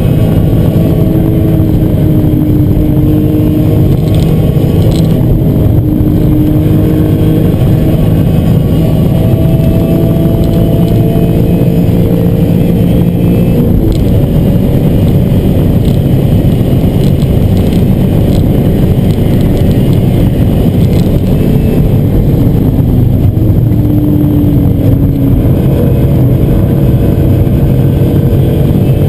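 The BMW M3 E46's straight-six engine running hard at speed, heard from inside the cabin over loud wind and road noise. The engine note changes pitch a few times.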